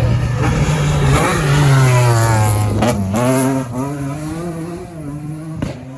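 Rally car engine revving hard as the car accelerates past. The pitch climbs, drops at a gear change about three seconds in, climbs again, and the sound fades as the car pulls away.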